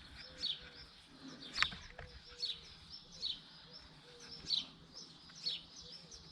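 A small bird chirping over and over, short falling chirps about once a second, with a single faint click about a second and a half in.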